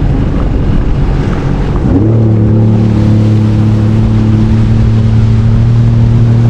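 Jet ski engine throttling up about two seconds in, its pitch rising and then holding steady as the craft gets under way, with water and wind noise before it.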